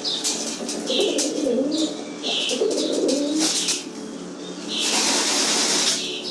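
Birds calling: low wavering coos like a pigeon or dove, over short high chirps repeated about once a second and scattered clicks. A loud rush of noise, like wingbeats, runs for about a second near the end.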